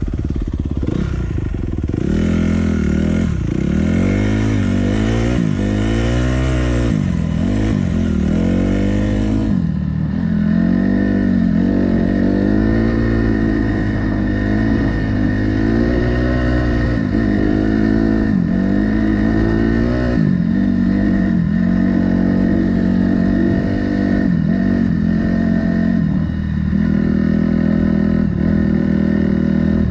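Enduro motorcycle engine being ridden, revving up and down in quick swells for the first several seconds, then running at a steadier, more even pitch with small rises and falls.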